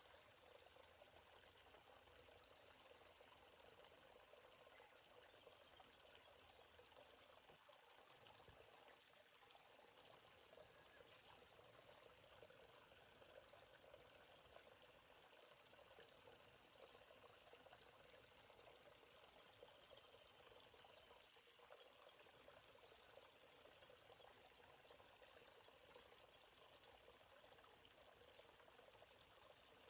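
A steady, faint, high-pitched insect chorus, like crickets, over a soft murmur of a forest stream.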